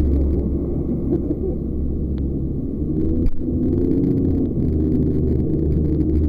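Jet boat engine running with a steady low rumble and a brief click about three seconds in.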